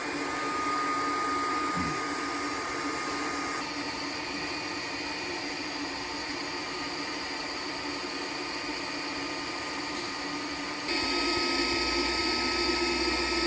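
A small high-speed electric motor runs steadily with a constant whine, like a blower or electric air pump, and gets louder about eleven seconds in.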